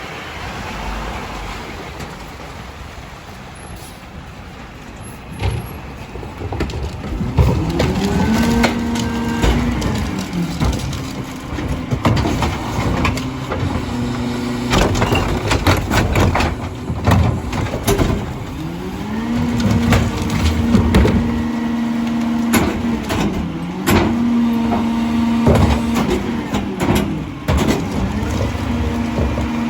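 Diesel engine of a Mack LR garbage truck rising to a high steady speed and dropping back several times to drive the hydraulics of the Heil DuraPack 5000 rear-loader packer. Throughout there are clanks and bangs of carts and trash going into the hopper.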